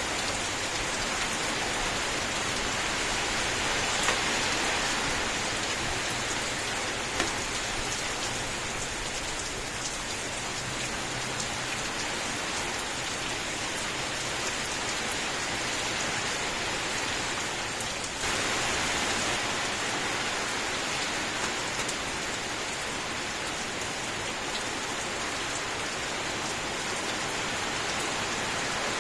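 Rain falling steadily: a dense, even hiss of rainfall with a few louder individual drops ticking through it.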